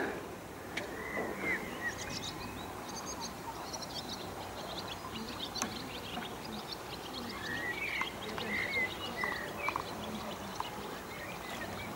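Birds chirping in short calls, a few near the start and a cluster in the second half, over a faint steady outdoor hiss.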